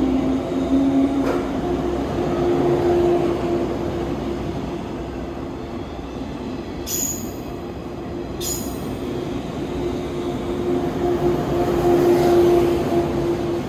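JNR 185 series electric train running out of the station, its motors and wheels making a steady hum and rumble. Twice near the middle, a brief high-pitched wheel squeal cuts in.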